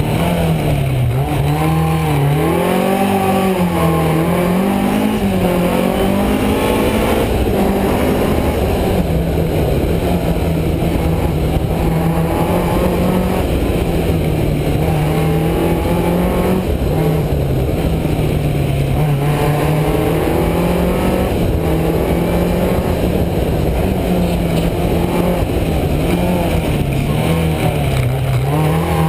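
BMW M3 rally car's engine at stage pace, heard from inside the cabin, its revs rising and falling again and again every second or two as the driver works through the bends.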